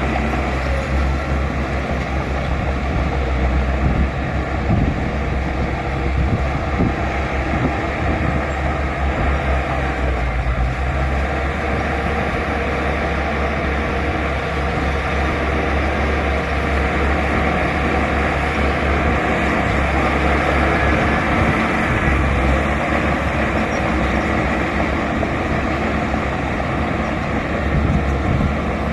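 Bulldozer's diesel engine running steadily at working speed.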